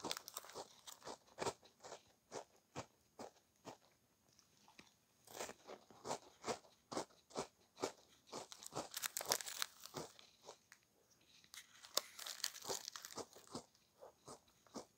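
Close-miked crunching and chewing of a crisp snack: sharp crunches, often two or three a second, with denser stretches of crunching around the middle and near the end.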